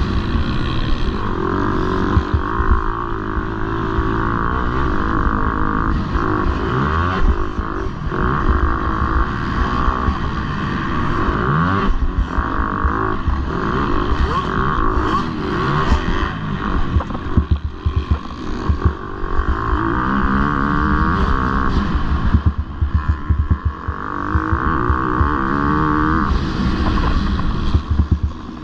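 Motocross bike engines racing, revving up and dropping back again and again as the riders accelerate and shift around the track.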